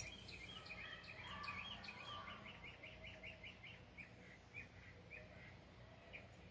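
Faint bird chirping: a quick series of short, repeated high chirps, about three a second, fading out after several seconds. A single click comes right at the start.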